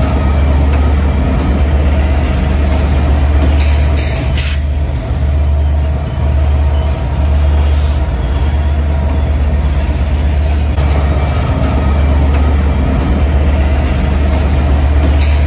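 Train running with a steady low hum and rush of noise, broken by a few short hisses about four, four and a half, and eight seconds in, and again near the end.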